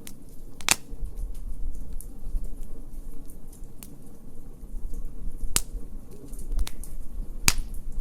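Wood fire crackling, with a sharp pop about a second in and three more in the second half, over a low rumble.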